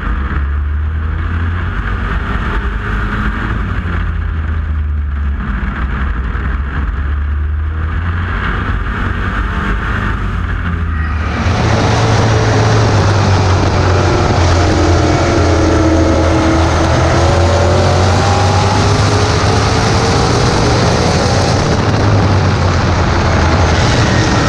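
Super Pro pulling truck's engine running, a steady low drone that about eleven seconds in jumps to a much louder, fuller sound, its pitch wavering up and down as it works.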